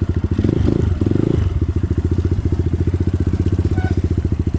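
Single-cylinder dirt bike engine idling with an even thumping beat, blipped briefly for about a second shortly after the start, then settling back to idle.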